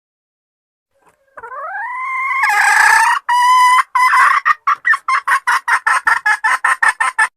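Junglefowl hen calling to attract a male. About a second and a half in, a drawn-out note rises in pitch. Loud cackling notes follow, then a quick run of clucks about five a second that stops abruptly near the end.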